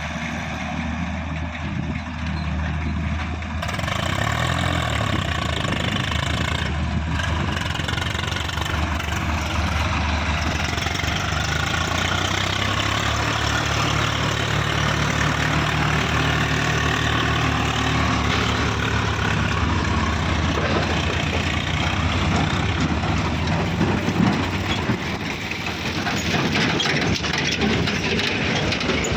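Diesel engines of an excavator and a farm tractor running, getting louder about four seconds in, with the engine note rising and falling slowly through the middle as the machine works under load.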